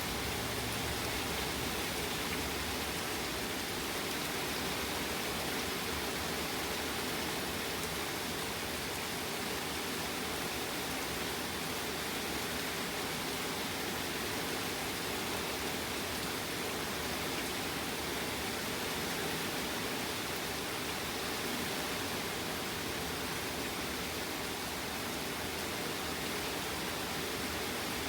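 Steady rain falling from a thunderstorm: an even, unbroken hiss with no thunder heard.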